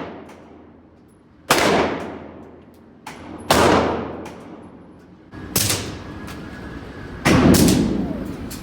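9mm Glock 19 Gen 4 pistol, fitted in a CAA Micro Conversion Kit chassis, firing four single shots at a steady pace about two seconds apart, each shot with a long echoing tail.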